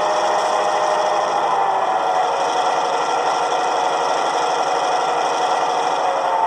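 Diesel locomotive engine sound played through the small speaker of an ESU LokSound V5 decoder in an HO-scale GP18 model, running steadily with a fast, even rasping texture under several held tones.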